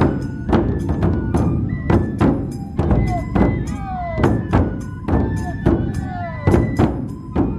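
Matsue dō-gyōretsu festival music: a large festival drum beaten in a steady rhythm about twice a second, with bright strikes that ring high over it and a bamboo flute playing held and downward-sliding notes.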